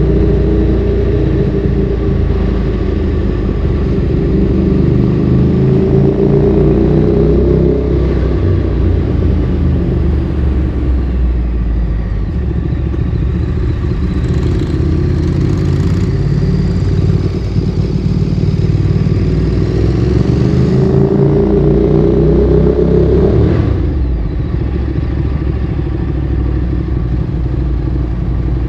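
Ducati Streetfighter 848's L-twin engine through a Termignoni exhaust, ridden under way. The revs climb twice, about five to eight seconds in and again about twenty-one to twenty-three seconds in, each climb cut off by a sudden drop, with lower, steadier running between.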